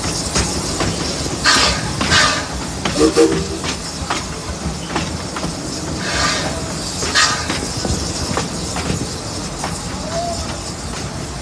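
Amusement-park railroad train running, a steady low rumble from the locomotive and cars with short bursts of hiss every few seconds.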